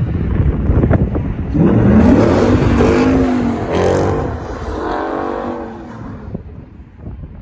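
2011 Ford Mustang GT's 5.0 Coyote V8 revving hard while the car slides round in a drift, its note climbing and dropping through several pulls. It falls away near the end as the car moves off.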